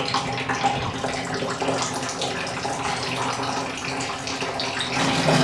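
Water running steadily from a bathroom tap or shower fitting, an even rushing hiss.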